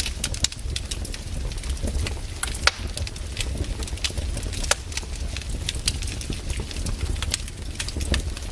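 Campfire crackling: irregular sharp pops and snaps from the burning wood, several a second, over a steady low rumble of the flames.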